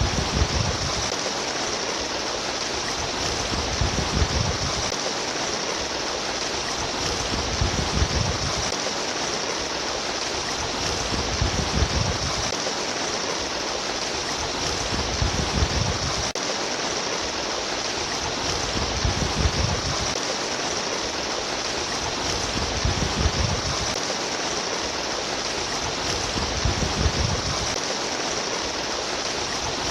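Babbling stream of running water, a steady rush with a low rumble that swells about every four seconds.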